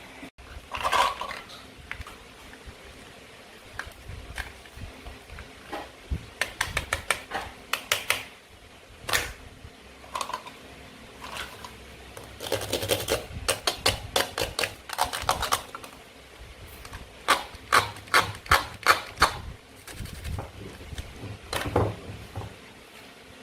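Plastic and wooden toy food pieces being handled and cut apart. They make runs of quick hard clicks and taps, several a second, with pauses between.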